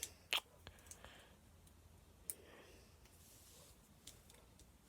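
A few faint, sparse clicks from handling a plastic Hess toy vehicle as its little space scout is worked. The sharpest click comes about a third of a second in, and another a little after two seconds.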